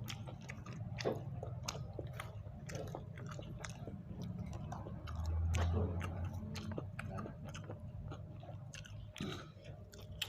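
Close-miked chewing and biting of grilled chicken, a string of small wet mouth clicks and smacks. A low hum runs for a second or so about halfway through.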